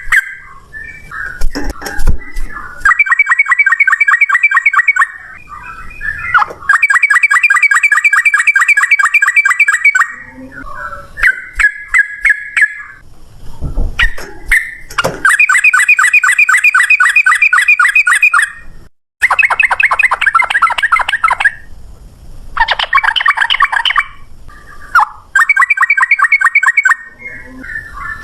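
Yellow-vented bulbul (trucukan) singing a fast rattling 'ropel' song: about seven rapid trills of one to three seconds each, with short chattering notes between them.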